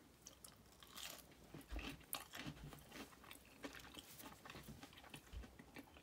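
A person chewing crisp, breaded deep-fried perch close to the microphone: irregular crunches and mouth sounds, fairly faint.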